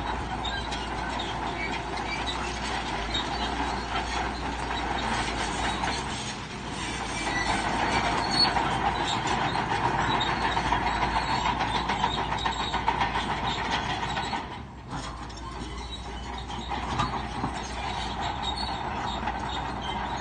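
Crawler bulldozer running under load, its steel tracks clanking and squealing over a steady engine noise, which dips briefly about fifteen seconds in.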